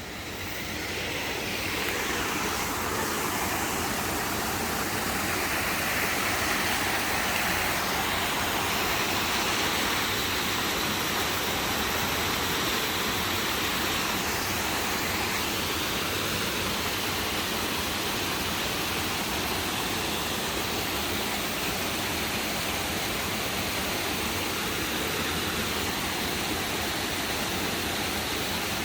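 Steady, even rushing noise that swells in over the first two seconds and then holds level.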